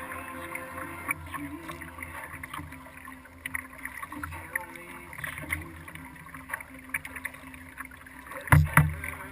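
Water lapping and dripping against a kayak hull with small irregular splashes from paddling, picked up by a hull-mounted camera, and one loud thump about eight and a half seconds in.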